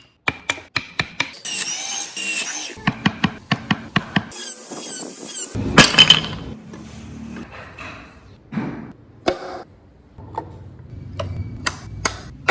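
Woodworking tool sounds: a run of sharp taps and knocks on wood, broken by two short spells of high-pitched power-tool squeal in the first half, with the loudest knock about six seconds in and sparser knocks after.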